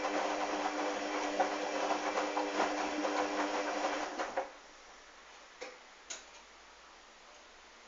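Hoover washing machine's motor turning the drum during a wash, a steady hum with the swish of the load, stopping a little past halfway through. It is followed by a quiet pause in the tumble with a couple of short clicks.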